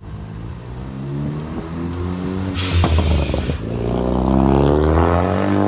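Tuned Ford Focus ST engine running through its exhaust, with a short burst of hiss and a few sharp pops about two and a half seconds in, then revving up, its pitch climbing steadily. The pops come from a Stratified tune set up for exhaust crackles and pops.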